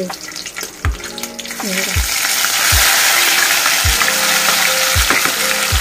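Ground roasted onion-and-coconut masala paste landing in hot oil with cumin and curry leaves, with a loud frying sizzle that swells about two seconds in as the paste spreads into the oil.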